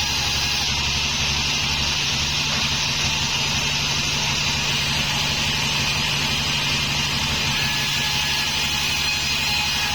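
Homemade band sawmill running steadily: a constant engine drone with an even hiss over it, with no breaks or changes in pace.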